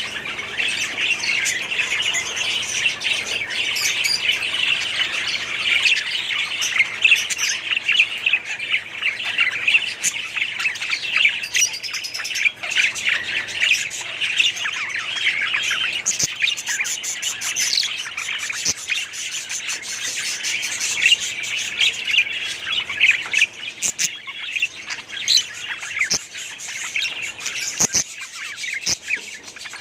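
A colony of budgerigars chattering, many birds chirping at once without a break, with scattered sharp clicks.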